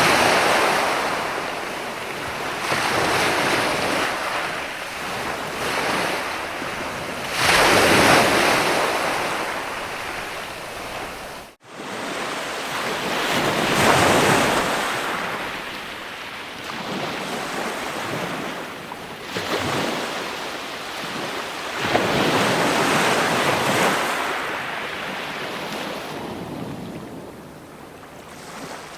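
Ocean waves breaking and washing on a shore. The surf rises and falls in surges every few seconds. The sound cuts out for an instant a little over a third of the way through.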